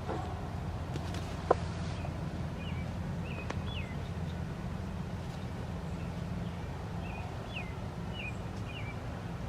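Small birds chirping in short, repeated calls over a steady low rumble, with one sharp click about a second and a half in.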